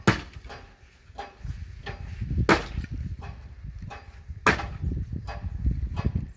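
Firewood being split by hand: three hard chopping strikes about two seconds apart, with lighter knocks of wood between them.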